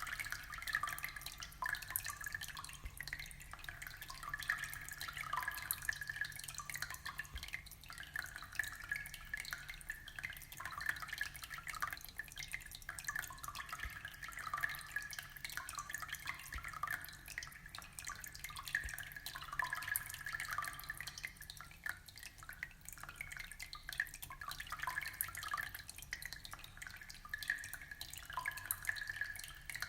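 Aquarium water trickling and splashing: a continuous patter of small drips and bubbling, over a faint steady low hum.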